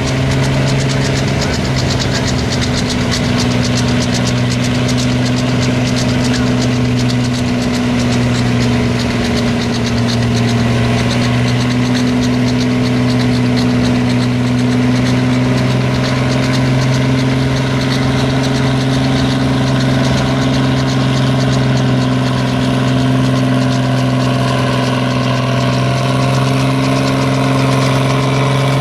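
Large modified pulling-tractor engine running loudly at a steady low speed, its pitch holding nearly constant with no run-up to full throttle.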